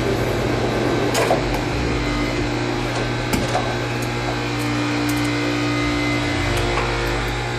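A steady motor hum with a few sharp clicks.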